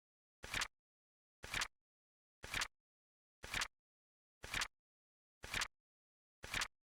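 Flip-clock sound effect: a short mechanical clack of a flap flipping over, once a second with silence between, seven times.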